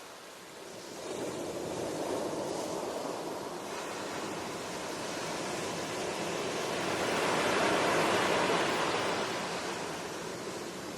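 Ocean waves washing on the shore in slow swells: the surf rises about a second in, builds to its loudest near the middle to late part, then ebbs again toward the end.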